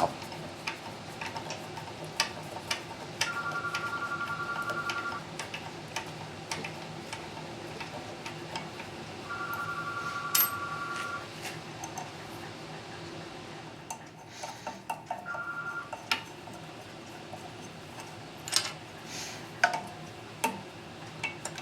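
Hand tools clicking and clinking on metal while the nut is tightened onto the threaded shaft of a pressure washer unloader. There are three stretches of rapid, even ticking, about 3, 9 and 15 seconds in, the last one brief.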